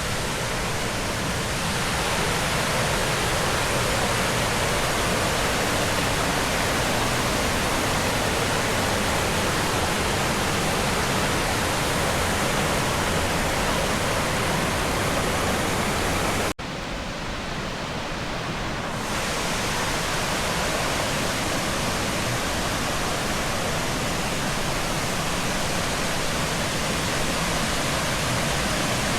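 Limestone-tier waterfall rushing steadily, an even wash of falling water. About two-thirds of the way through it cuts out for an instant, comes back softer, and builds back to full strength within a couple of seconds.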